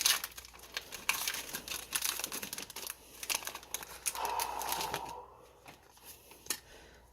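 Foil wrapper of a Pokémon TCG booster pack crinkling and tearing as it is opened by hand, dense crackling for about five seconds, then quieter with a few scattered ticks.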